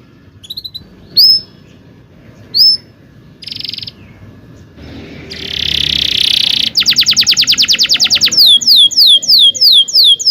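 Domestic canary singing: a few separate upswept chirps and a short buzzy trill, then a harsh raspy phrase past the middle, then a fast rolling trill and a run of quick down-slurred whistles, about four a second.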